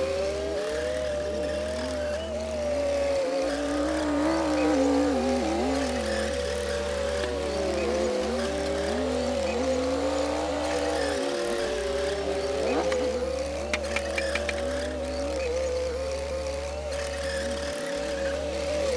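Komatsu D60P bulldozer's diesel engine working under load while pushing soil, its pitch rising and falling with the load. A few short sharp clicks come about two-thirds of the way through.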